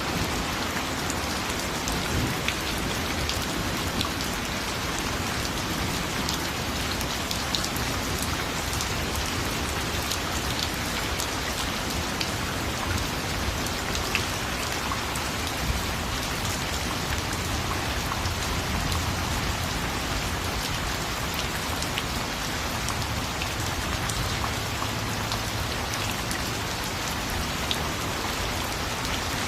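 Steady, heavy rain falling on a surface, with individual drops ticking out of the even hiss and a faint low rumble underneath.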